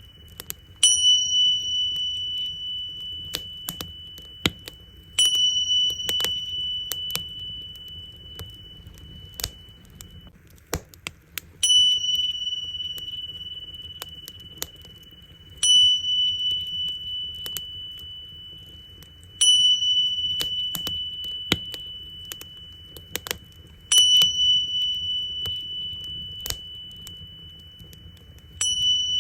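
Tingsha cymbals struck seven times, about every four seconds, each strike a bright ring that fades slowly, over the crackling and popping of a wood fire.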